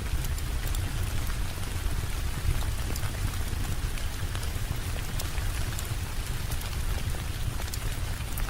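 Steady heavy rain, a continuous hiss over a deep low rumble, with scattered sharp ticks throughout.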